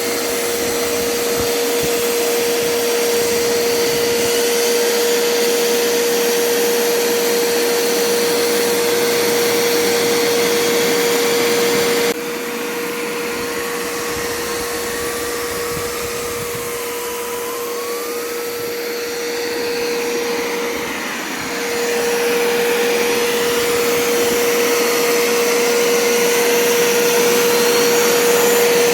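Vacuum running with a steady whine over a rushing hiss, sucking water out of a freshly washed, wet seat and carpet. It drops in level abruptly partway through and comes back up near the end.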